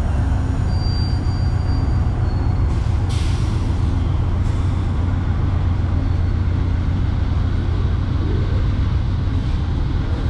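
Amtrak Crescent passenger train pulling out: a steady low rumble of the diesel locomotive and rolling cars, with a short faint high squeal about a second in and a brief hiss of air about three seconds in.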